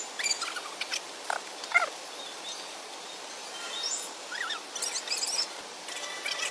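Birds chirping: scattered short calls and quick rising whistles, with a few clicks.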